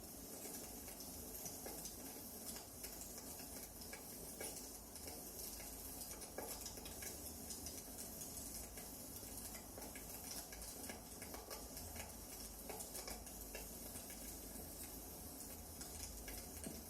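Wood fire crackling: a steady faint hiss with small pops and snaps at irregular moments.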